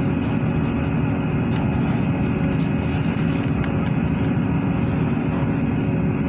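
Inside a diesel passenger train running at speed: a steady low rumble from the wheels and running gear, with the engine's even hum and scattered faint rattling clicks.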